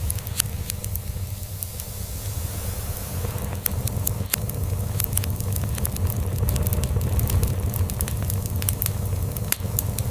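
Wood log fire crackling, with frequent irregular sharp snaps and pops, over a steady low cat purr.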